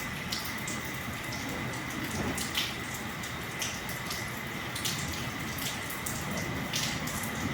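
Steady rain falling, with irregular sharper drops and drips striking nearby surfaces every second or so.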